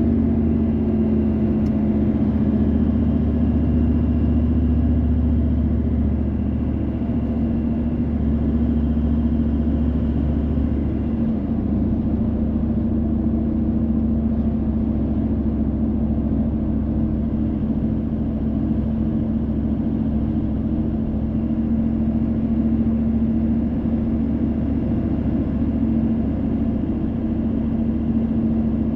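Car driving along, heard from inside the cabin: a steady low rumble of engine and tyres with a constant engine drone, easing slightly about six seconds in.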